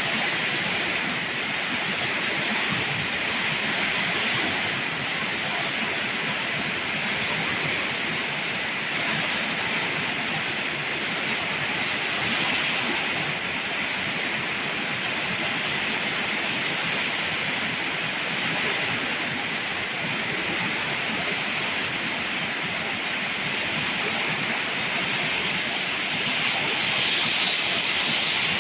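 Torrential rain pouring down in a steady, dense hiss from a summer thunderstorm downpour, with a brief louder, higher hiss near the end.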